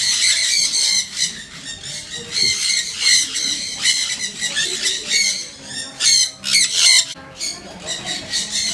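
Many birds squawking and chirping at once: a dense, high-pitched chatter of overlapping short calls, with louder flurries now and then.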